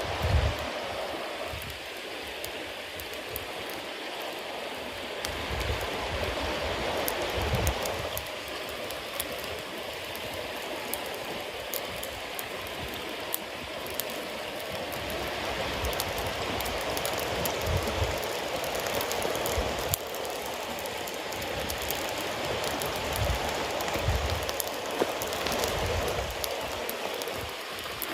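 Bonfire of damp cedar leaves and wet firewood burning: a steady hissing with many small crackles and pops all through. The hissing comes from the wet fuel steaming as it burns.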